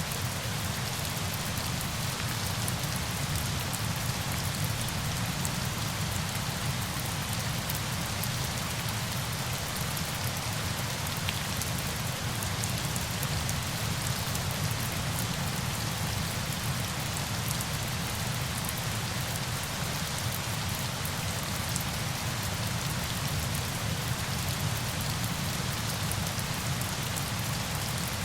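Steady rain falling, a continuous even hiss with fine drop ticks and no change in level.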